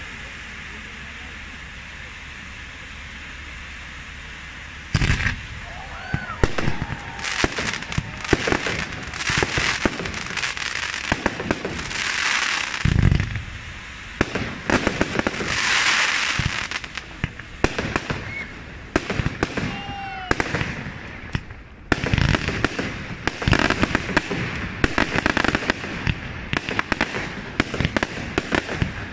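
Fireworks display: after a few seconds of steady background noise, a rapid run of bangs and crackling sets in, with stretches of hissing and a few short whistles among the reports.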